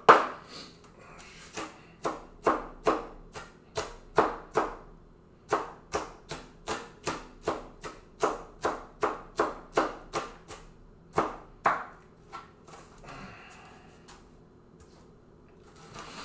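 Kitchen knife chopping an onion on a cutting board: a run of sharp knocks, about two or three a second with short pauses, that stops a few seconds before the end.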